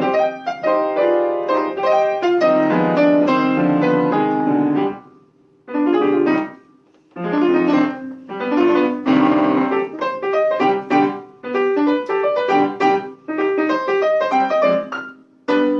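Piano being test-played: a passage of chords and melody played in phrases, with short pauses about five and seven seconds in and just before the end.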